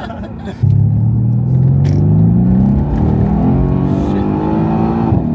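Mercedes-AMG C63 S 4.0-litre twin-turbo V8 under full-throttle acceleration. The engine note jumps in suddenly about half a second in and climbs steadily in pitch, drops at an upshift near the middle, then climbs again.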